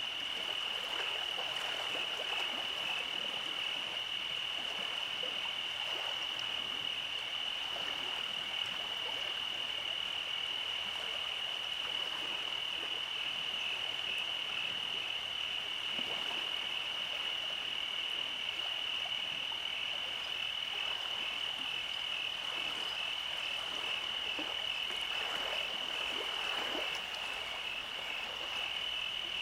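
Night chorus of frogs: a steady high-pitched trill under scattered croaks.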